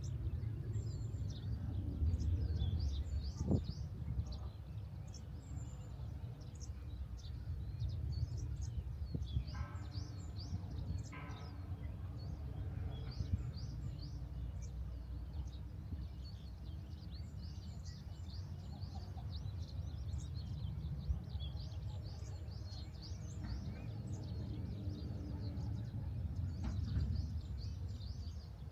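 Many small birds chirping and twittering in quick, overlapping short notes, over a steady low rumble.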